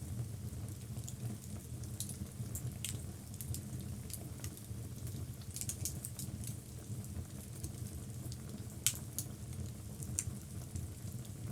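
Logs burning in a fireplace: a steady low rumble from the fire with scattered small crackles and pops, two sharper pops in the last third.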